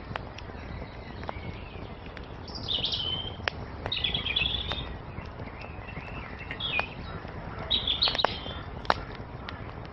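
Wood fire crackling with scattered sharp pops, one loud pop near the end, over a steady low rush of burning, while small songbirds chirp in short bursts of high twittering every second or two.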